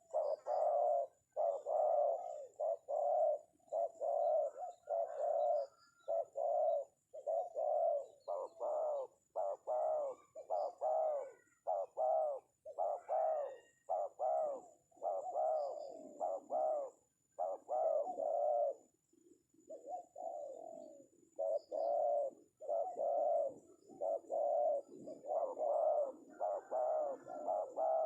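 Spotted dove (tekukur) cooing, a long run of low, rounded coo notes repeated about one and a half times a second, with a short break about two-thirds of the way through.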